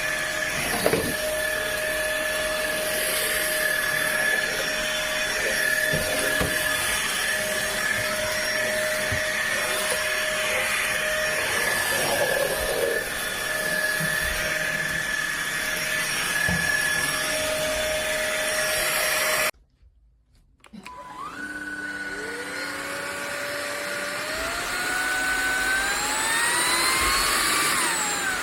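Cordless stick vacuum cleaner running with a steady whine over air noise, cut off abruptly about two-thirds of the way through. After about a second of near silence, a motor spins up with a rising whine that keeps climbing for several seconds.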